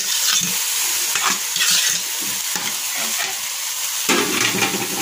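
Egg, tomato and onion frying in an aluminium pot with a steady sizzle as parboiled instant noodles are tipped in. A wooden spoon scrapes and stirs them, more fully from about four seconds in.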